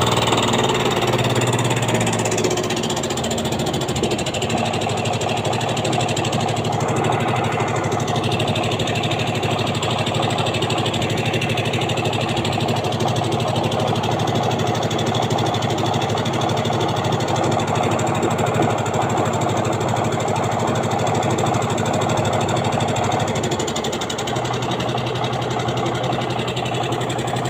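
Engine running steadily, its note shifting to a different pitch and getting slightly quieter about 23 seconds in.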